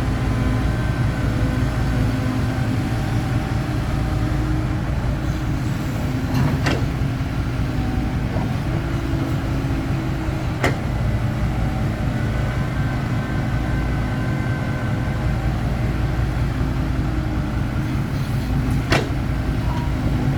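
Excavator diesel engine and hydraulics running steadily while loading dirt into a dump truck, with three sharp knocks spread through it.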